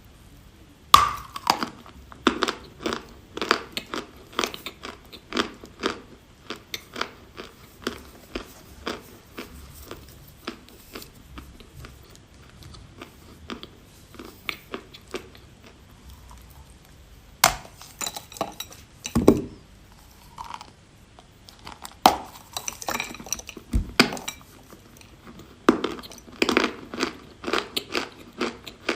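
A person biting into and chewing a piece of edible chalk: crisp, sharp crunches as pieces snap off, then chewing. A quieter stretch of chewing in the middle gives way to a run of louder bites near the end.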